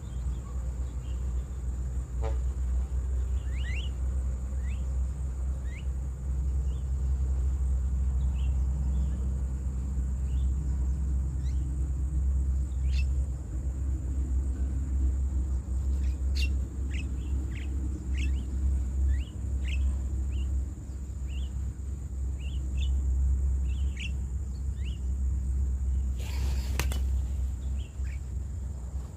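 Birds giving short, repeated chirps every second or so, over a steady low rumble and a thin, constant high-pitched tone.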